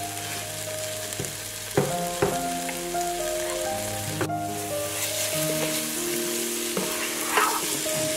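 Onion and tomato masala sizzling in a nonstick frying pan, with a couple of sharp knocks about two seconds in and a spatula stirring and scraping through it near the end. Soft background music with held notes plays underneath.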